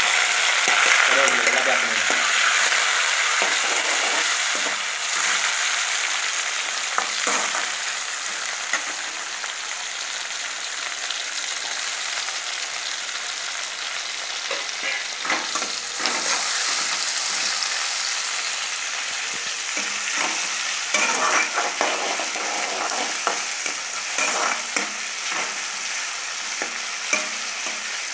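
Tomatoes and onions sizzling as they fry in hot oil in a kadai, loudest in the first few seconds after the tomatoes go in. A spatula scrapes and stirs against the pan now and then.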